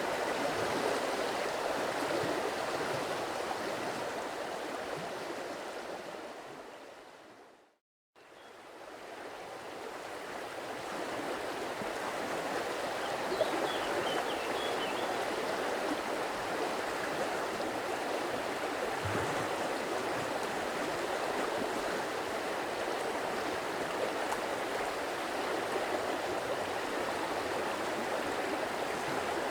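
A stream's water running over rocks in a steady rushing babble. It fades out to silence about eight seconds in, then fades back up over the next few seconds, like the loop point of a recording.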